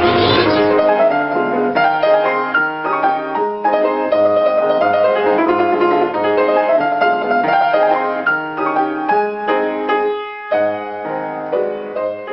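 Piano music: a busy run of notes over a bass line that fades down near the end.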